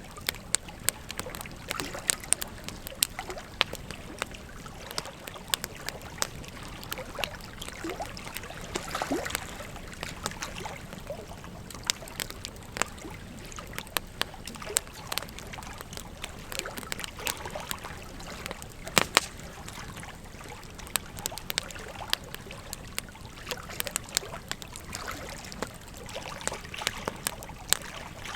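Wood fire crackling, with frequent irregular sharp pops, a couple of them much louder, over the steady rush of a flowing river.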